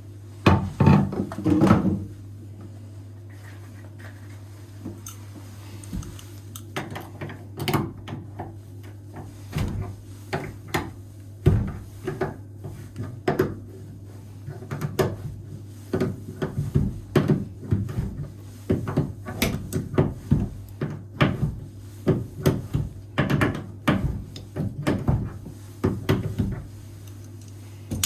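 Irregular knocks, taps and clicks of hand tools working on a bathroom mixer faucet and its fittings, over a steady low hum.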